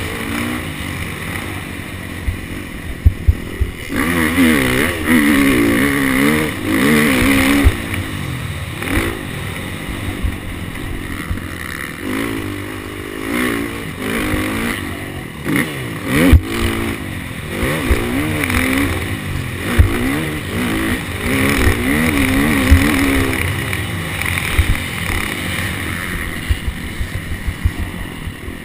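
KTM SX250F four-stroke single-cylinder dirt bike engine revving up and down again and again as it is ridden hard, the pitch climbing and dropping every second or two, with sharp knocks and clatter along the way.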